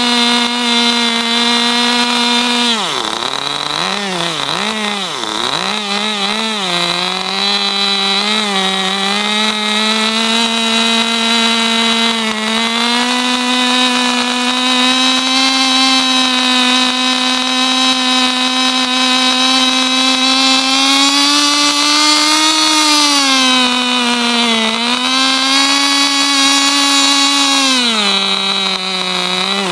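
Kyosho Ultima RB radio-controlled buggy's 2.5 cc nitro glow engine revving with no load, a high steady buzz. Its pitch drops sharply and recovers several times about three to seven seconds in, and sags again twice near the end.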